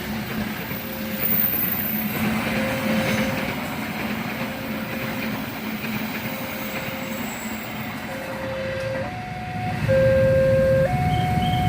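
Railway level-crossing warning alarm sounding over a steady rumble: first a single electronic tone repeating about every second and a bit, then from about 8 s in a louder two-tone signal alternating high and low about once a second.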